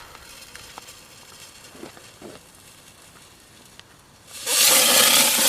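A lit firework spraying with a loud, steady hiss from about four seconds in, after a few faint clicks.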